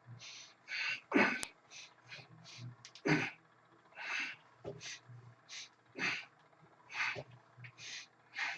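A man's forceful, breathy exhalations and gasps, about one a second, as he strains through repeated curls with a 75-pound weight.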